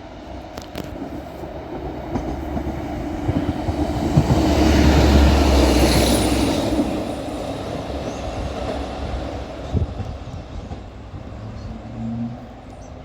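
A Northern Class 150 Sprinter diesel multiple unit passing through the station without stopping. It builds up, is loudest about five seconds in, then fades away over the next few seconds.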